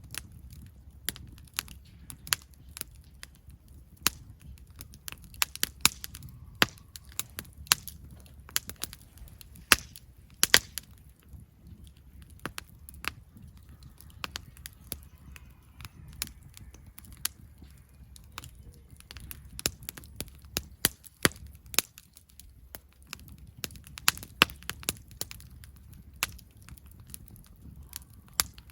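Wood campfire crackling, with irregular sharp pops and snaps from the burning wood over a low steady rumble.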